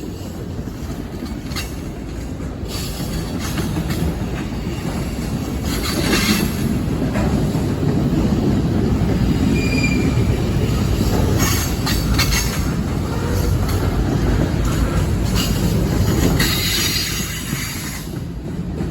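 Train rolling past with a steady low rumble that builds over the first several seconds and eases near the end, broken by several short, high-pitched wheel squeals.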